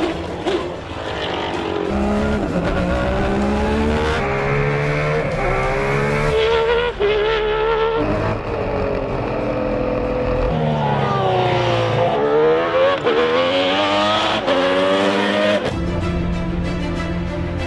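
Lamborghini LE3512 V12 engine of a Minardi M191B Formula One car running hard on track. Its pitch climbs and drops repeatedly as it revs up through the gears and comes off the throttle for corners. Music comes in near the end.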